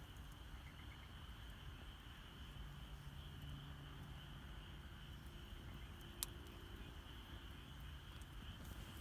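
Campfire burning quietly with one sharp crackle about six seconds in, over a steady high-pitched chorus of night insects.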